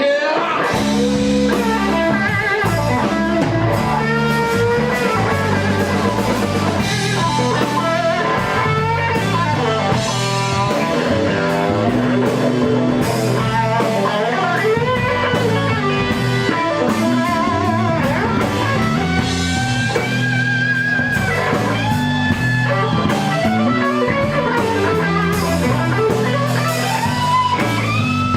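Blues-rock band playing an instrumental break: an electric guitar solo with bent notes over a walking bass line and drums.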